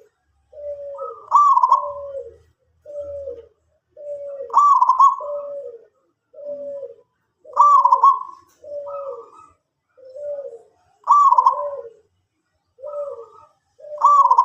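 Zebra dove (perkutut) cooing steadily: a run of short, falling coos about twice a second, with a louder, higher note about every three seconds.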